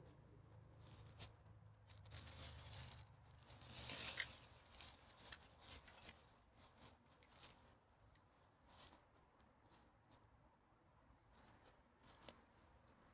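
Faint, irregular rustling and crackling of litter and dry forest debris being handled during rubbish collection, busiest in the first few seconds and then thinning to scattered crackles.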